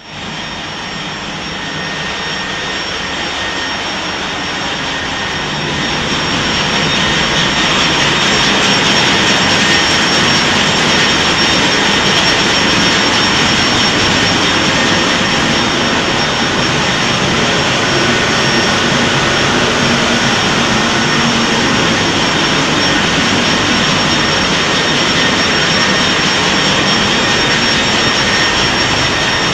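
Loud, steady machinery noise of a ship's engine room, engines and ventilation running together, with a thin high whine over it; it grows louder over the first several seconds, then holds level.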